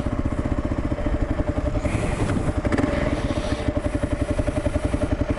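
Kawasaki KLR650's single-cylinder engine, breathing through a Lexx aftermarket exhaust, running steadily in first gear at low speed over bumpy dirt, with a brief rattle of the bike jolting over the ruts a little over two seconds in.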